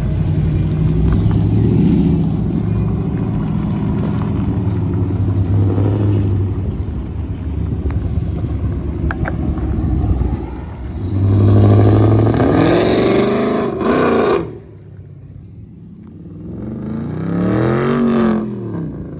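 Performance car engines at a car show: a steady low rumble, then two hard revs whose pitch climbs and falls back. The first rev cuts off abruptly and the second follows a few seconds later.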